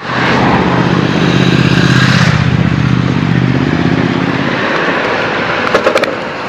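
Triumph Scrambler 1200 XC's parallel-twin engine running under throttle at steady revs, then easing off a little over two seconds in to a lower, rougher rumble. A few sharp clicks near the end.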